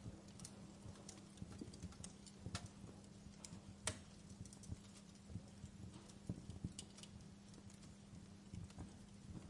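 Wood fire crackling in a fireplace: irregular sharp pops and snaps, the loudest about four seconds in, over a faint steady low hum.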